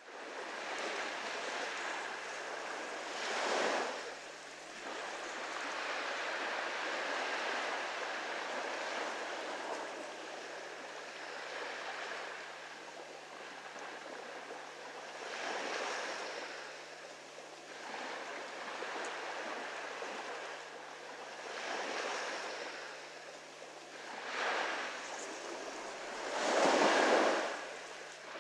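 Small ocean waves lapping on a beach: a steady wash of surf with a wave breaking every few seconds, the loudest swell near the end.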